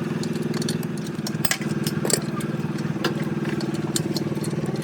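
An engine running steadily at idle, with scattered sharp metallic clinks and taps over it.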